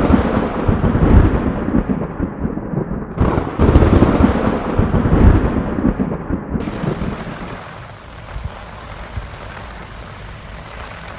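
Tropical-storm wind gusting hard against the microphone, a heavy rumbling buffet mixed with rain noise. A fresh gust comes about three seconds in. Past the middle the sound switches abruptly to a quieter, steady hiss.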